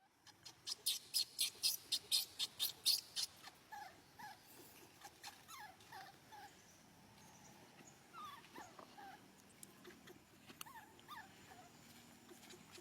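Baby monkey calling: a rapid run of short, very high squeaks, about four a second, for the first three seconds, then softer chirps that fall in pitch.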